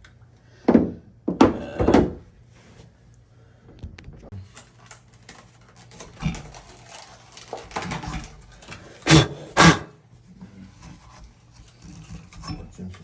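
A series of loud, short thunks: three in the first two seconds, then two close together a little past the middle. Quieter handling clatter lies between them.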